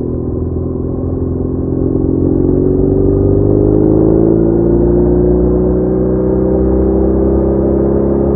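BMW R1200R's flat-twin engine under way, its pitch rising steadily for about the first five seconds as the bike gathers speed, then holding level.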